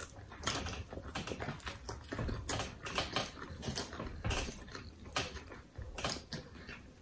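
People chewing sub sandwiches with wet lip smacks: a quick, irregular run of clicks and smacks.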